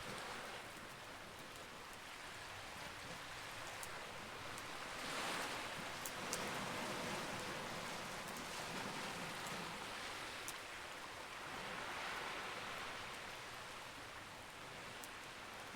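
Campfire crackling, with a few sharp pops over a steady rushing hiss that swells and eases twice.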